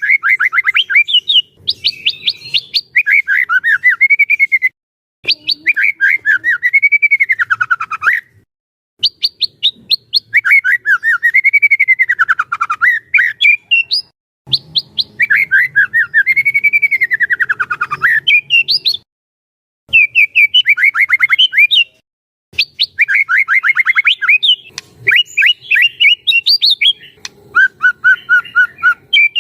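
White-rumped shama singing in long phrases of rapid, chattering notes that sweep up and down in pitch, with short pauses between the phrases.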